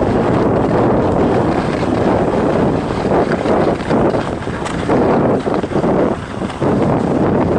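Wind rushing over the camera microphone of a skier going downhill, a loud, dense rumble that dips briefly a few times near the end.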